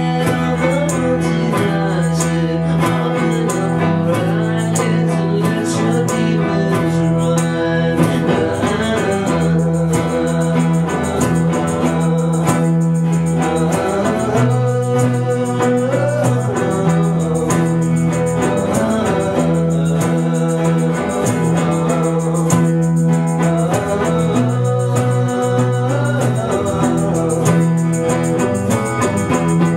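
Live rock band playing an instrumental passage of a bluesy song, led by guitars over a steady bass line that shifts between a few held notes.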